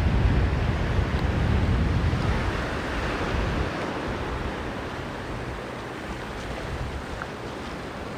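Sea surf washing onto the beach, with wind rumbling on the microphone; the low rumble eases off about halfway through.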